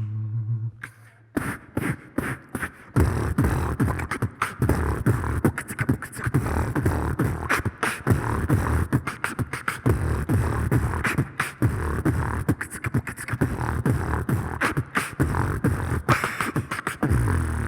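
Beatboxing: a fast vocal-percussion routine of deep kick-drum-like beats and sharp clicks, starting about a second in as a held low hum cuts off.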